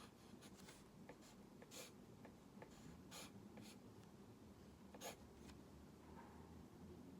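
Faint scratching of a drawing tool on its surface: a series of short strokes at uneven intervals, the longest about two seconds in and about five seconds in.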